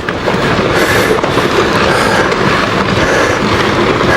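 Rockfall crashing down a volcano's slope: a loud, continuous clatter and rumble of tumbling rocks.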